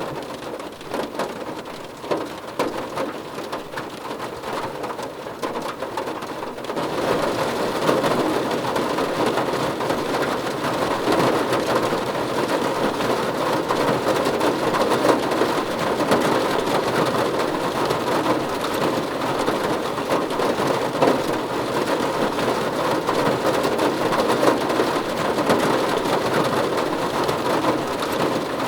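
Steady rain pattering on a car roof, growing heavier about seven seconds in.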